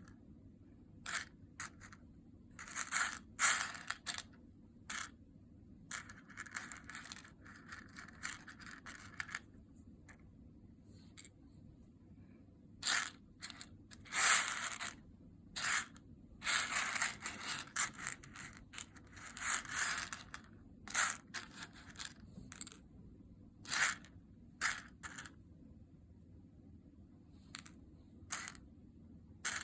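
Coffee beans rattling and scraping in short, irregular bursts, some quick clicks and some about a second long, with quiet gaps between.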